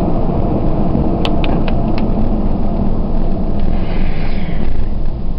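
Ford 4.6 L V8 exhaust through a Thrush turbo muffler, a steady low rumble heard from inside the truck's cab with the back window open. A few light clicks come about a second in.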